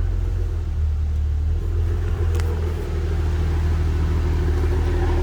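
Maserati Ghibli SQ4's twin-turbo V6 idling steadily through a custom-built exhaust, a deep, even engine note.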